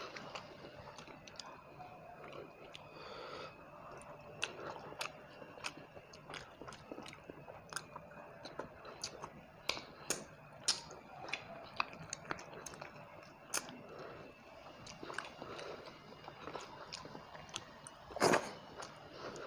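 A person chewing and biting fried rohu fish and rice close to the microphone: many short wet clicks and smacks, with one louder crunching bite near the end.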